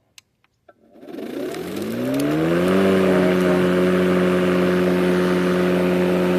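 A few light clicks, then a battery-powered electric lawn mower's motor and blade spin up with a rising whine over about two seconds and settle into a steady hum at running speed.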